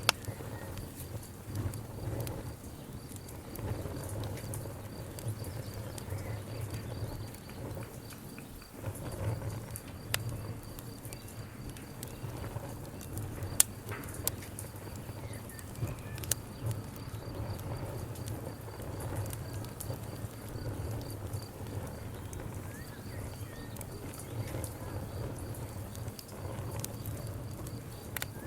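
Wood campfire burning: irregular crackling with occasional sharp pops over a low, steady rumble.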